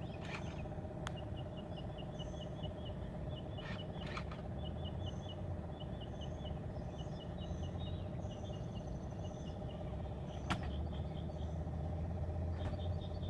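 Outdoor background: a steady low hum with runs of quick, high, repeated chirps, and a few sharp clicks, the clearest about ten seconds in.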